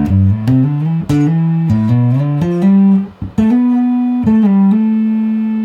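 1973 Fender Jazz Bass played through a fuzz pedal, picking out a quick line of a dozen or so notes and then holding one note that rings on. The fuzz adds an octave up at the top end and an octave-down thing at the bottom end.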